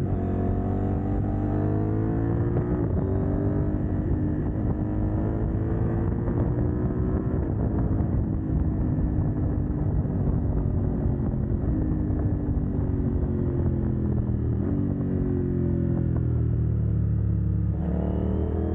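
CF Moto 800NK's parallel-twin engine running with its catalytic converter removed, under way on the road. The engine note rises and falls as it pulls and eases off, falling away slowly through the middle and climbing again near the end.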